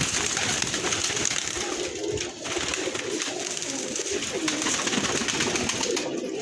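A flock of domestic pigeons cooing, many low coos overlapping without a break, over a steady hiss.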